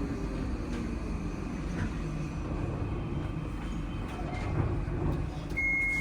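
Docklands Light Railway train running, heard from inside the car: a steady rumble of wheels and running gear on the track. Near the end a thin, steady high tone comes in.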